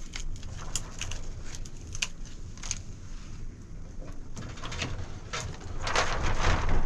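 Rain falling, with irregular sharp drips tapping on a nearby surface over a steady low rumble, growing louder near the end.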